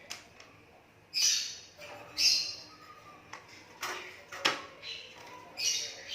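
An Asian pied starling giving a series of short calls, about four, spaced a second or so apart, with a couple of sharp clicks in between.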